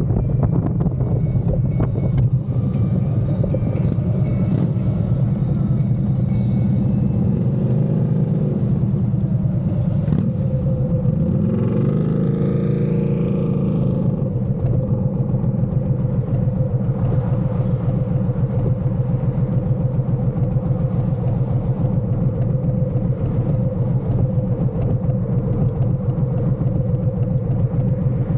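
Motorcycle engine running steadily while riding, with a brief rise of hiss about twelve seconds in.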